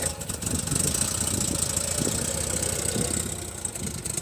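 Classic British MG roadster's four-cylinder engine running at low revs as the car pulls away slowly, getting quieter near the end.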